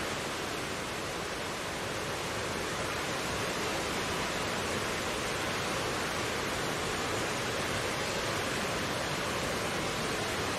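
Mountain stream flowing over rocks: a steady, even rush of water with no change in level.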